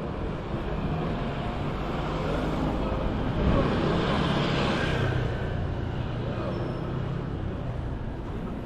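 Busy city street ambience: traffic running steadily, with a vehicle passing and swelling louder about four seconds in, over the murmur of people's voices.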